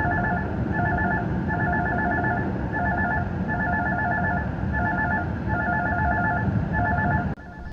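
Phone ringing with an incoming call: rapid electronic two-pitch beeps in alternating long and short groups, over steady car road noise. The ringing cuts off suddenly near the end.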